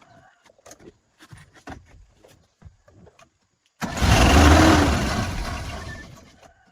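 Scattered light clicks and knocks of hand-tool work. About four seconds in, a car engine starts abruptly and runs loudly, its pitch rising and then falling, before fading away near the end.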